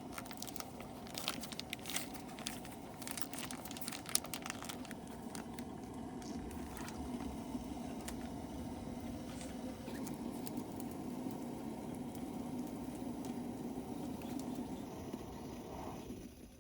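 Camping gas burner running with a steady hiss, with a flurry of light clicks and crackles in the first few seconds; the burner sound cuts off near the end.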